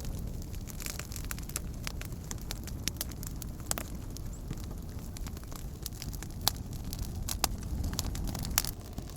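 Wood campfire crackling: scattered sharp pops over a steady low rumble, with a few louder pops in the second half.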